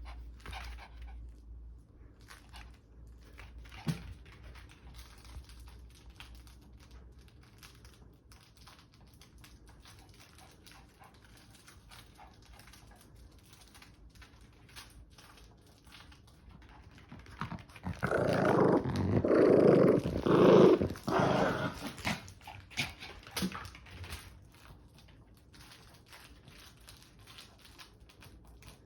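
A puppy playing: scattered small clicks and scuffs, then a few seconds of loud, rough growling about two-thirds of the way through.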